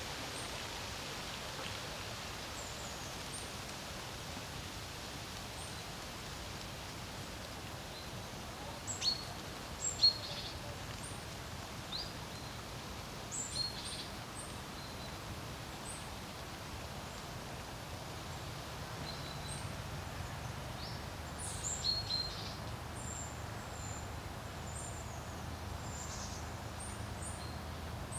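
Wind blowing steadily over a lake, with a low rumble that grows stronger in the second half. Small songbirds give scattered short, high chirps throughout, the loudest about a third of the way in and again about three quarters through.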